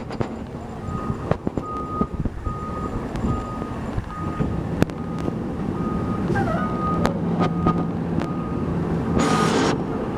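Fire engine's reverse alarm beeping steadily, about one and a half beeps a second, over the truck's engine running as it backs up. A short hiss comes near the end.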